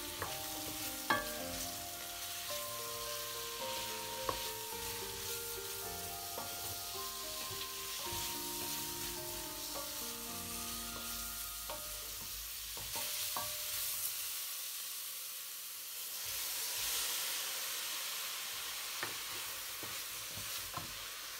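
Onions and carrots sizzling in an aluminium pot as a wooden spoon stirs them, with a few sharp knocks of the spoon against the pot. The sizzle grows louder in the second half; soft background music runs under the first half.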